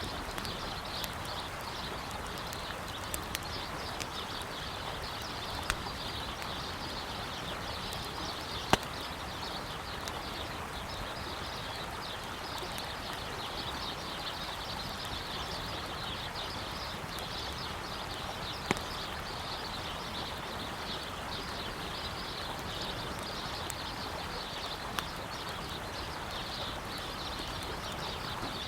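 Campfire wood crackling, with a few sharp pops, the loudest about nine seconds in and again near nineteen seconds, over the steady rush of a flowing river.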